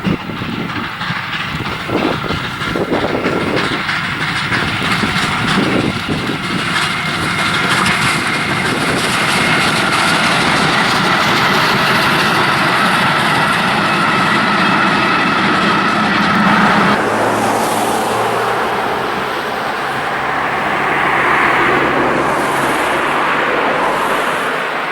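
Train running on the rails, with a few knocks early on, then a steady high-pitched squeal over the running noise. About 17 seconds in, the sound changes abruptly to a lower, steadier hum.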